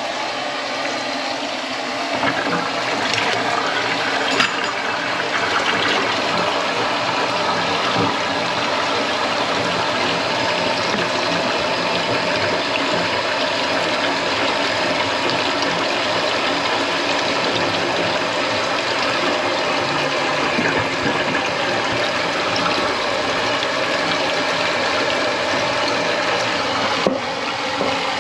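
Water running steadily into a kitchen sink, an even rushing noise with a few small knocks.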